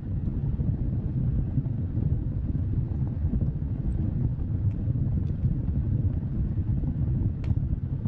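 Wood fire burning: a steady low rumble of flames with a few faint crackles, the sharpest pop about seven and a half seconds in.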